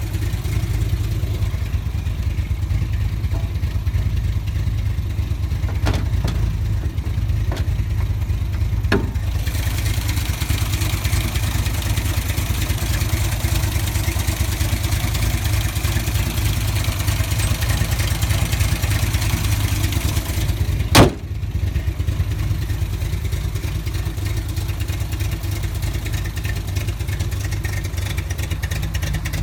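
1989 VW Golf's four-cylinder engine idling steadily. A single sharp click or knock sounds about two-thirds of the way through, with a few fainter ticks in the first third.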